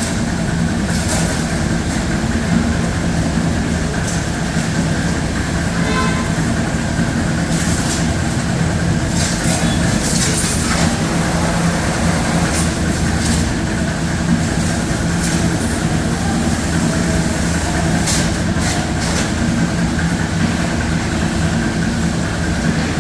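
Pressure washer running steadily during an engine wash: a constant low motor hum under a broad hiss of spraying water, with short sharper hissing spurts now and then.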